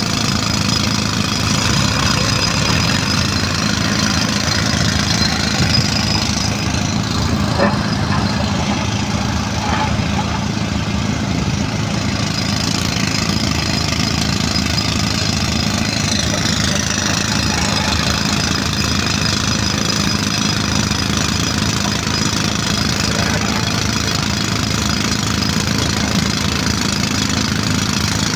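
Heavy machinery's diesel engine running steadily and loudly at close range, with a fast, even low-pitched beat.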